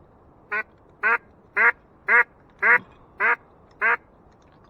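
A mallard duck call blown in a series of seven loud, evenly spaced hen-style quacks, about two a second, calling to incoming ducks.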